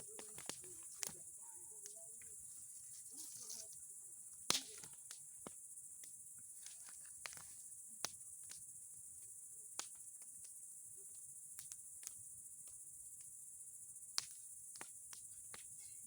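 Large bonfire of boards and pine cones crackling, with irregular sharp pops; the loudest come about four and a half seconds in and near the end. A steady, high-pitched insect chirring runs underneath.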